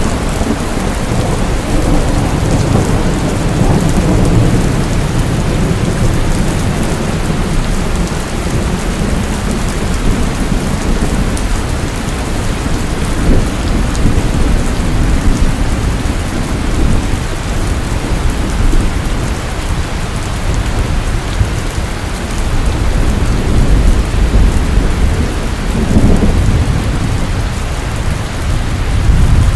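Steady heavy rain pouring down, with low rolls of thunder that swell at the start and again near the end.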